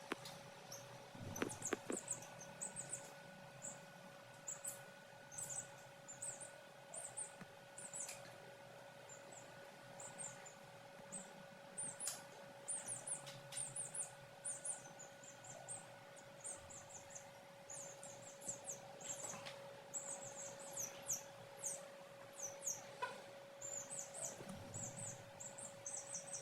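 Chicks peeping: many very short, high cheeps coming in irregular clusters, over a steady hum.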